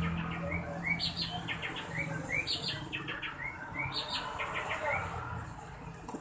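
Small songbird chirping in quick repeated phrases: runs of short falling notes alternating with short rising whistles, a phrase about every second.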